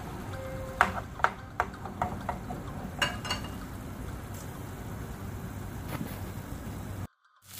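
A spatula knocks and scrapes against a nonstick frying pan several times in the first three seconds while chicken pieces are stirred in frying olive oil, over a steady low hum. The sound drops out briefly near the end.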